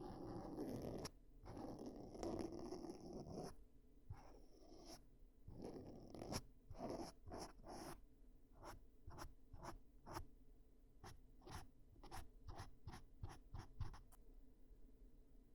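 Faint close-up ear-cleaning sounds on the microphone: rustling and scraping for the first few seconds, then a run of short, light scratches or taps, about two a second.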